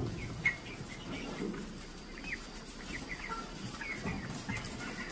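A flock of broiler chickens calling: many short, overlapping clucks and cheeps. There are a couple of sharp knocks in the first half second.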